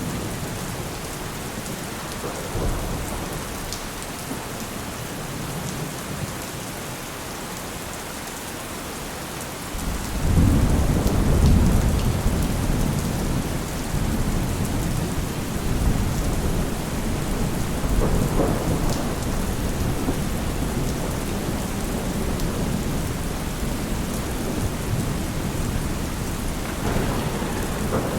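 Steady rain with rolling thunder: about ten seconds in a deep rumble swells up suddenly and is the loudest part, with smaller rumbles following.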